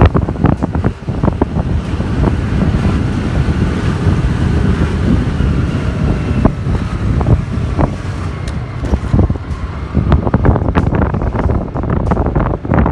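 Wind buffeting the microphone: loud, uneven low-pitched noise with many irregular knocks.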